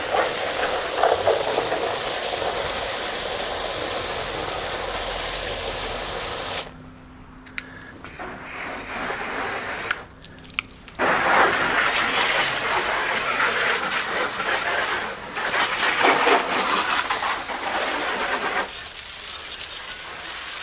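Water spraying onto a car's bodywork and wheels in two long spells, with a pause of about four seconds between them.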